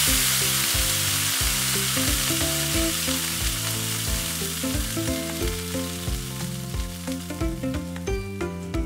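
Food sizzling in hot oil in a miniature pan. The sizzle starts suddenly and loudly, then slowly dies down.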